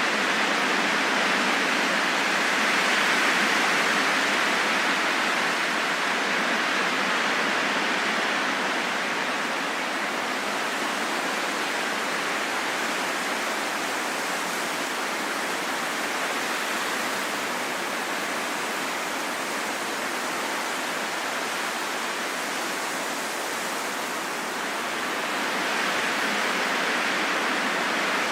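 Steady rain falling, an even hiss with no separate drops or events, swelling slightly a few seconds in and again near the end.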